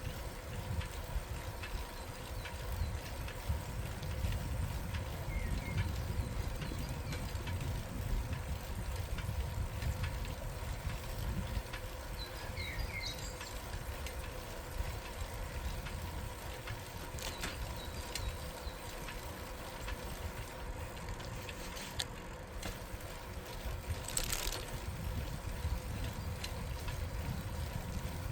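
Bicycle riding along a quiet street: a steady low rumble of tyres and wind on the microphone, with small clicks and rattles from the bike and a few short high chirps.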